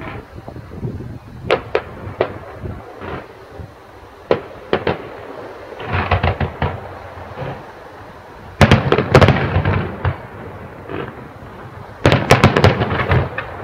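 Aerial fireworks going off: scattered single bangs, then dense volleys of rapid bangs and crackle about six, nine and twelve seconds in.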